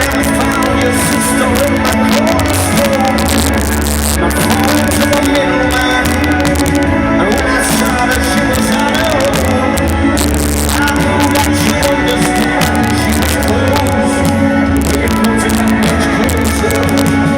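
Rock band playing live, an instrumental passage without vocals. It is heard through a loud audience recording with harsh crackling distortion over the music.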